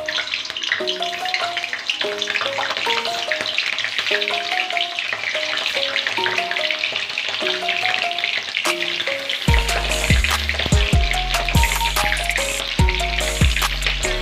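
Paneer cubes sizzling as they fry in hot oil, each cube adding to the hiss as it goes in. Background music with a melody plays over it, and a bass beat comes in about nine and a half seconds in.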